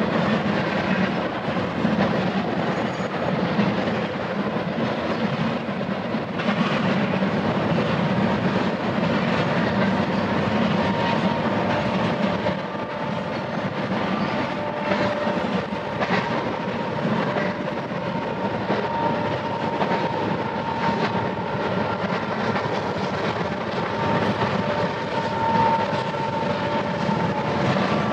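Double-stack container freight train rolling past steadily, a continuous rumble of steel wheels on rail with some clickety-clack. About a third of the way through, a thin high whine joins in.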